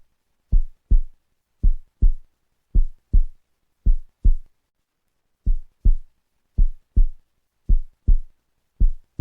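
Heartbeat: paired low thumps (lub-dub) a little slower than one a second, with silence between the beats and one beat left out about halfway through.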